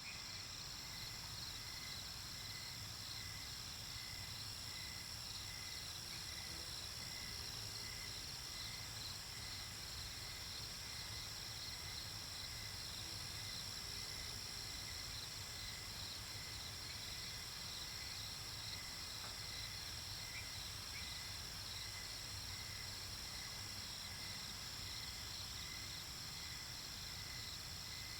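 Night-time nature ambience: a steady chorus of crickets chirping, with a slower chirp repeating evenly throughout beneath the high continuous trill.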